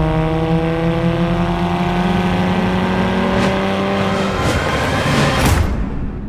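Car engine accelerating, its pitch climbing steadily for about four seconds, then a rising whoosh that cuts off near the end.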